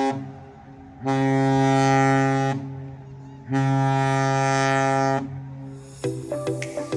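Carnival Conquest cruise ship's horn sounding deep, steady blasts for her departure from port: the end of one blast, then two more of about a second and a half each. Music starts near the end.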